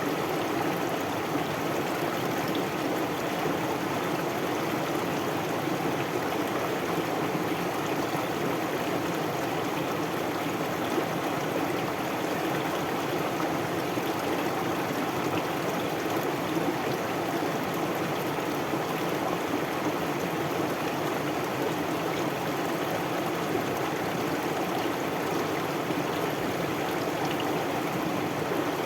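Water of a flowing stream running and babbling steadily, an even rush with no breaks.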